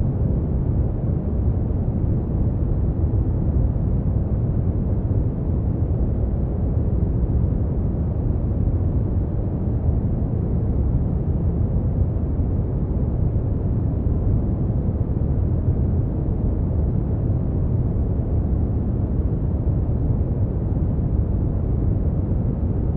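Steady brown noise: a deep, even rumbling hiss with most of its energy in the low end and little above the midrange.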